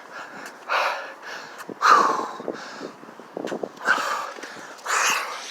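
A man's heavy breathing: four forceful exhales about a second apart, one of them with a short voiced grunt, and a brief run of light clicks in between.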